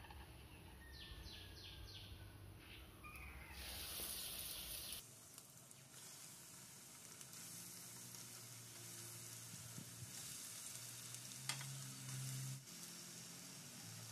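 Breadcrumb-coated prawn rolls sizzling as they shallow-fry in hot coconut oil in a pan: a faint, steady hiss.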